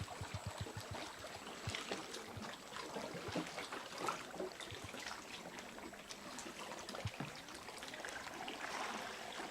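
Water lapping and trickling at the kayaks, with scattered drips and small splashes. A quick run of soft low thumps comes in the first second.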